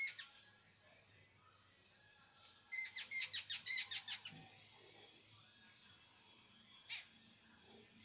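Jungle babbler calling: a single short note at the start, then a quick chattering run of about a dozen notes lasting a second and a half, and one more single note near the end.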